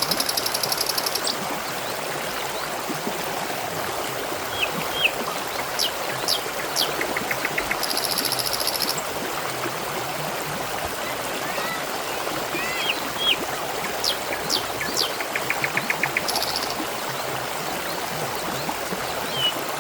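Trickling, gurgling water running steadily. Scattered short bird chirps and three brief, very rapid trills sound over it.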